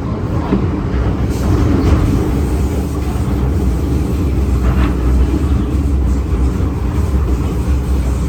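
MTR M-Train electric multiple unit running on the line: a steady, loud rumble of wheels on rail and running gear.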